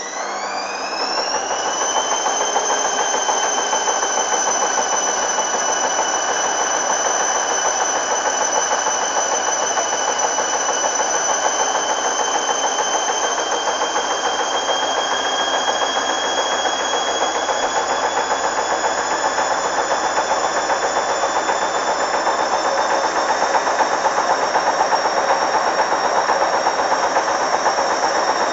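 Hoover Dynamic washing machine spinning: the motor's whine rises quickly in the first couple of seconds as the drum gets up to speed, then holds as a steady high-pitched whine over the rushing noise of the drum.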